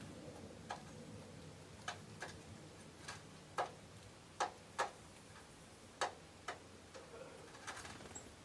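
About a dozen short, sharp ticks at irregular intervals, the loudest four around the middle, over a faint steady background.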